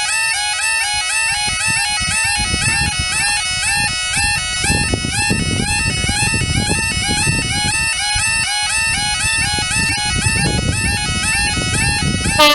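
Bagpipes playing a fast, ornamented melody, with a low rumble underneath.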